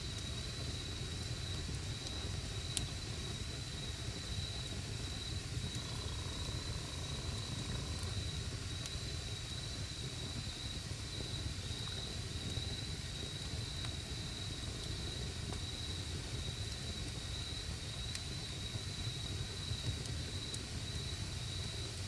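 Campfire of burning wood crackling with scattered small pops over a steady low rumble, while an insect trills steadily on one high pitch.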